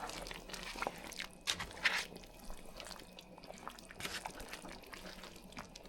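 Scattered small clicks and short scrapes of kitchen handling around a pot of curry, loudest about one and a half to two seconds in.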